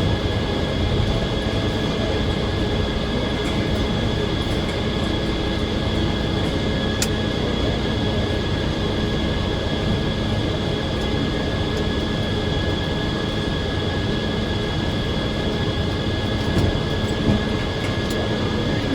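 Circular sawmill running steadily: a constant mechanical noise with a steady high whine over it. One sharp tick comes about seven seconds in.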